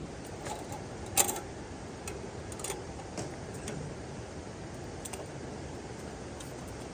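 Steady hiss of rain falling, with a handful of short sharp clicks and taps scattered through it, the loudest about a second in.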